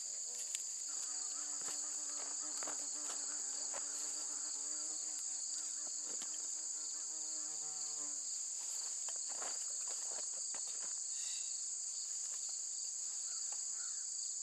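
Steady high-pitched chorus of insects trilling outdoors, with no break. Under it, a fainter low pitched hum runs for several seconds early on, and a few light clicks are scattered through.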